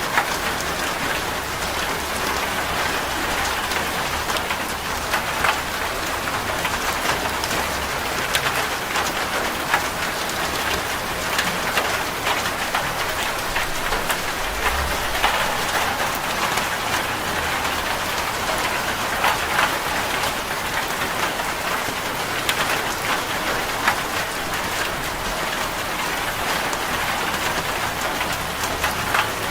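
Steady rain drumming on a corrugated zinc roof, with many single drops ticking sharply on the metal sheets.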